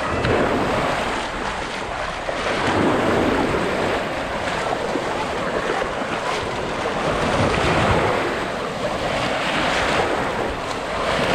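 Big ocean waves breaking and washing up the beach, rising and falling in surges every few seconds, with wind buffeting the microphone.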